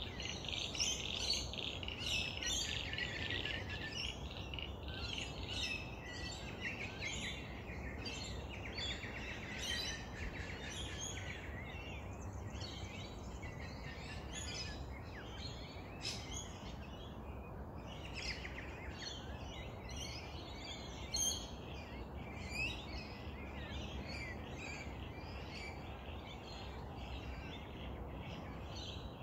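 Bush birds chirping and calling throughout, many short high notes from several directions, over a steady low background rumble.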